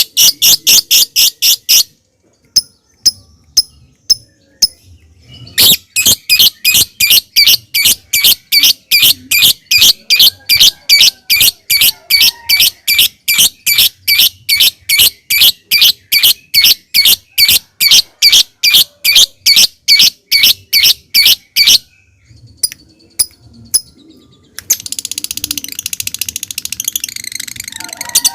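Lovebird calling: a few sharp, spaced clicks, then a long run of sharp high notes repeated at about three a second ('ngetik', the typing call). About 25 seconds in, the calls give way to a dense rapid rattling trill ('ngekek').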